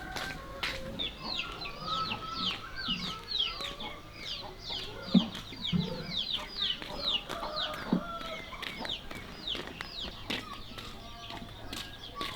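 Chickens clucking and peeping: a fast run of short, high, falling peeps, about three a second, that fades out near the end.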